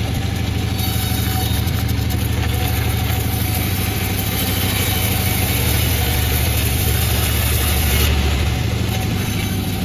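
Panda36 two-stroke chainsaw running steadily, with an extra upper hiss that stops about eight seconds in.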